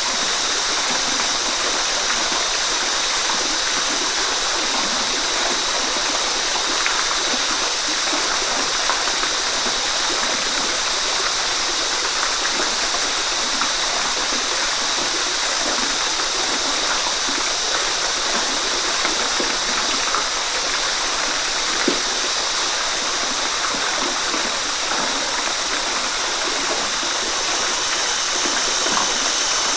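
Waterfall: a steady, continuous rush of falling and splashing water.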